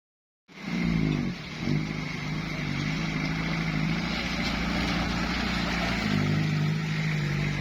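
Jeep engine revving under load as it drives out of deep mud, starting about half a second in, with its pitch shifting a couple of times.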